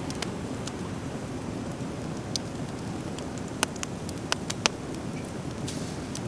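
Driftwood fire crackling, with sharp pops of burning wood scattered through, several clustered just past the middle, over a steady background rush.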